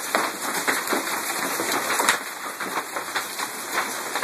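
Hail coming down hard with rain: a dense, continuous patter of ice pellets striking surfaces, with one sharper hit about two seconds in.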